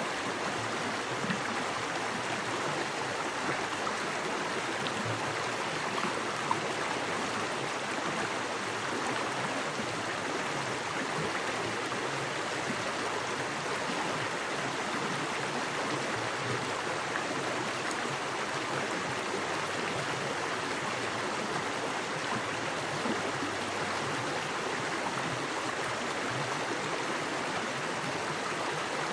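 Small woodland creek with fast water running over rocks: a steady, even rush of flowing water.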